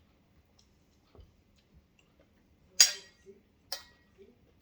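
Tableware knocking during a meal: three sharp clinks, a faint one about a second in, the loudest just under three seconds in with a short ring, and another about a second after it.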